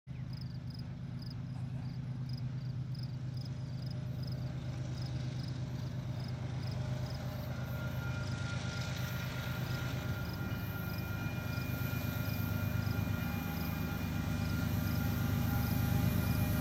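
Union Pacific diesel locomotives leading a double-stack container train approach, their engines' low rumble growing steadily louder. A faint whine joins about halfway through, and a faint high ticking about three times a second runs through the first part.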